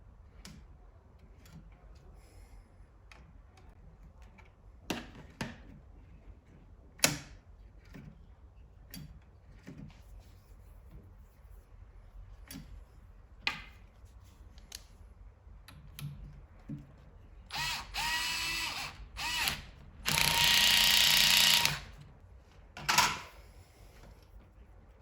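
Sharp clicks and taps of small parts being handled, then a small electric motor whirring in two short spells: first speeding up and slowing, then louder and steady for about two seconds.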